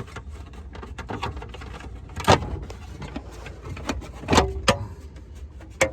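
Plastic lower dash panel being pried off, its retaining clips popping free with sharp snaps about two seconds in, twice more a little past halfway and once near the end, with plastic rattling and clicking in between.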